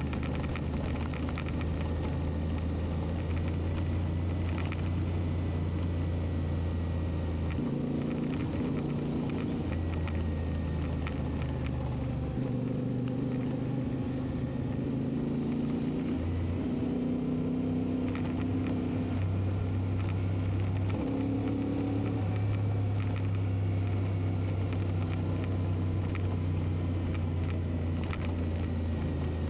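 CFMoTo 450MT's parallel-twin engine running on the move, its note holding steady and then stepping up or down several times as the revs change, over a steady rush of wind and road noise.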